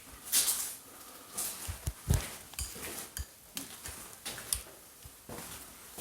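Irregular crunches, knocks and scrapes, like footsteps and handling over debris, with the loudest hits about half a second and two seconds in.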